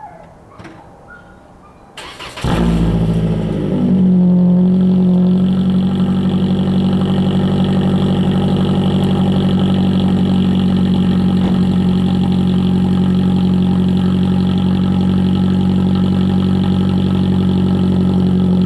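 Straight-piped 2020 Toyota Corolla LE four-cylinder cold-started: a short crank about two seconds in, the engine catches with a brief flare, and by about four seconds in it has settled into a steady, loud cold idle with a deep exhaust drone.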